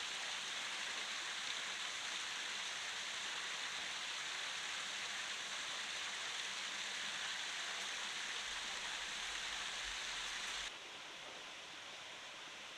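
Steady hiss of outdoor water noise, even and unbroken. About eleven seconds in it drops suddenly quieter and thinner.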